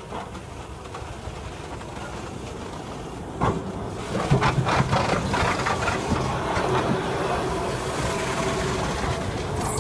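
C61 steam locomotive and its ride train on the move, the sound growing louder about three and a half seconds in with a run of clanks and knocks, then settling into a steady rumble.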